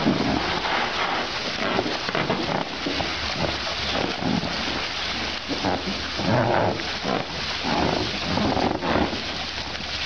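Steady hiss of water from a hose spraying and splashing into an inflatable paddling pool as baby elephants roll in it, with short calls rising over it now and then.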